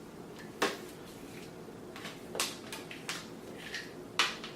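Handling noise: about five short clicks and knocks, spread unevenly, over a faint steady room hum, as the robot vacuum's charging gear is being plugged in.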